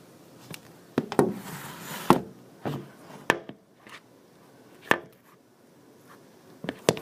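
A series of sharp knocks and clicks at irregular intervals, about eight in all, with a short hiss among the first few.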